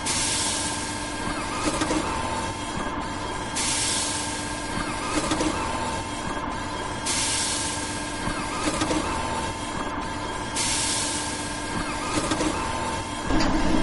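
Machinery running steadily with a hum, and a hiss of air or steam that comes in about every three and a half seconds, like a repeating machine cycle. It swells louder near the end, then cuts off.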